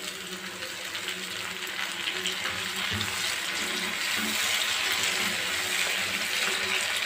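Chopped tomato frying in hot oil with fried shallots in a pan: a steady sizzling hiss that grows a little louder, with a soft knock about three seconds in.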